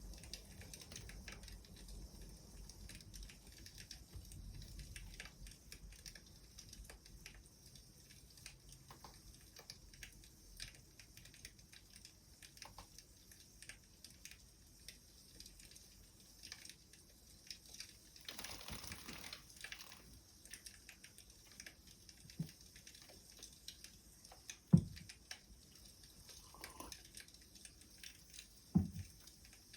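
Wood fire crackling faintly, with many small irregular crackles, a short hiss about two-thirds of the way in, and a few louder single pops or knocks near the end.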